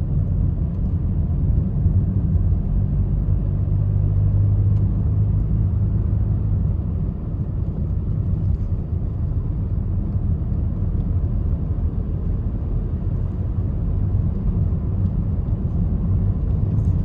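Steady low rumble of a road vehicle driving, with engine and road noise and a faint hum in the middle. It cuts off suddenly at the end.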